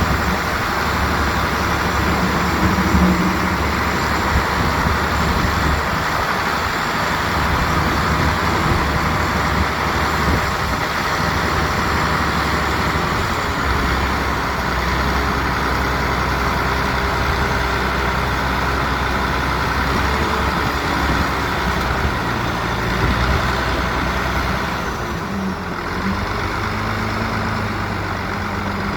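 Heavy diesel construction machinery running continuously, its engine note shifting as it works. About 25 seconds in the upper noise drops away, leaving a steadier lower engine tone.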